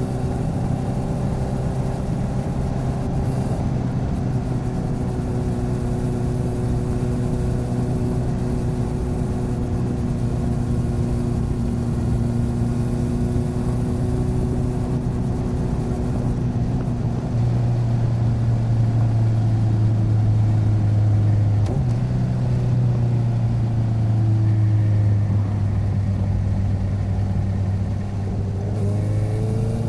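Motorcycle engine running steadily at cruising speed, picked up by a recorder mounted beside the bike. The note breaks briefly about two-thirds of the way through, and near the end it drops and then climbs again.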